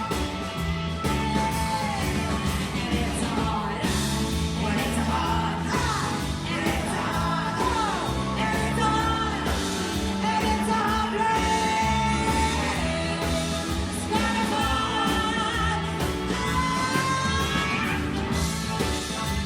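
A live rock band playing with a voice singing over it, loud and steady throughout, with long sustained and gliding sung notes.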